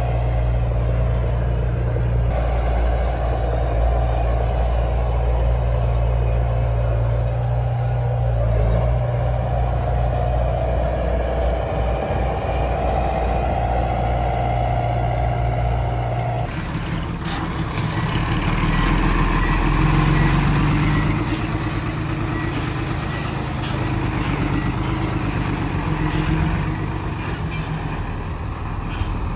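Heavy diesel earthmoving machinery running. The sound changes abruptly about halfway through, from a steady low drone to a rougher engine sound with scattered knocks and rattles.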